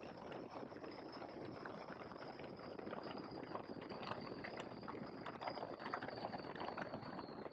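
Faint, muffled engine and airflow noise of an open-cockpit biplane on final approach, picked up through the headset intercom. A thin high whine slowly falls in pitch as the engine runs at reduced power for landing.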